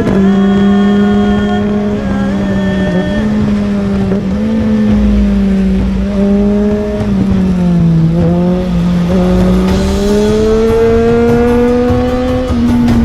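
Motorcycle engine running hard along a winding road. Its pitch dips about two-thirds of the way through as the throttle eases, climbs again, then drops near the end.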